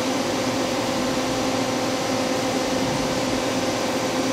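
Steady machine hum with a constant low tone and noise, holding level throughout.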